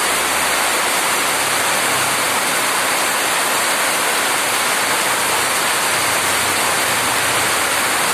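Heavy rain falling: a dense, steady hiss.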